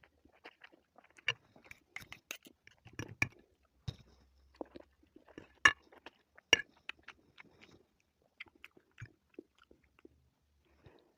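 A person eating cooked Indomie instant noodles close to the microphone: irregular wet chewing and mouth smacks, with two sharper smacks a little over halfway through.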